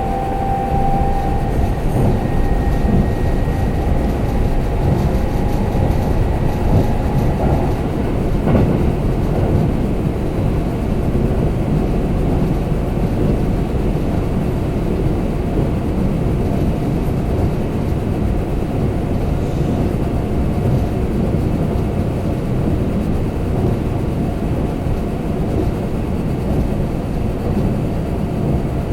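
Kintetsu limited express train running at speed, heard from inside the passenger car: a steady rumble of wheels on rail. Thin tones fade out over the first few seconds, and there is a single sharp clack about eight seconds in.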